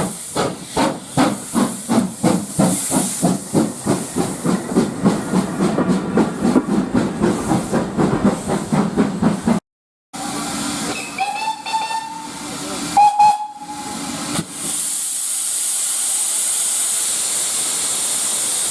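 Steam locomotive working, its exhaust chuffing in an even rhythm of about three beats a second that quickens slightly. After an edit, the locomotive's steam whistle gives two short blasts, followed by a steady loud hiss of escaping steam.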